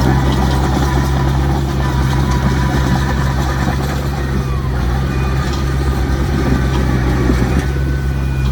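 Heavy diesel engine of earthmoving machinery running steadily at a constant low pitch.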